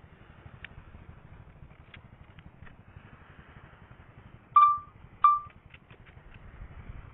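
Two short, loud warning beeps from a DJI Spark drone's controller, about half a second apart, signalling a weak or lost signal as the drone flies out of range. Faint clicks and a low steady rumble run underneath.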